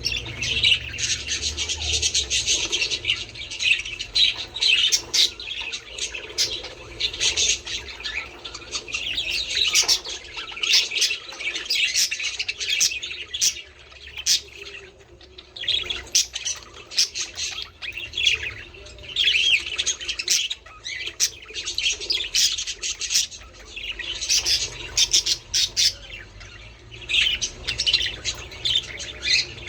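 A flock of budgerigars chattering: a dense, continuous mix of warbling chirps and short squawks, briefly quieter about halfway through. This is flock chatter of the kind played to budgies to encourage them to breed.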